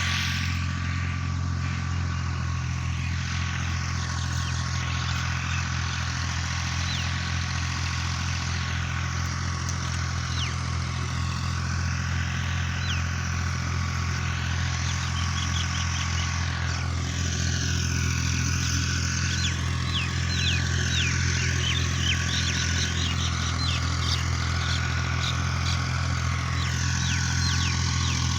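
Tractor engine running at a steady speed, with short high-pitched chirps scattered over it in the second half.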